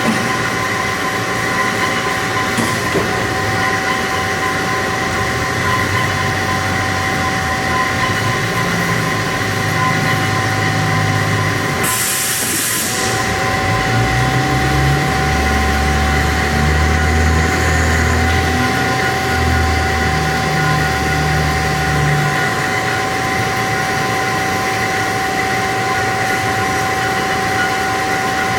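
HEM VT125HA-1 band saw running, a steady mechanical whine with several held tones. A short hiss comes about twelve seconds in, and a low hum swells and fades over the middle stretch.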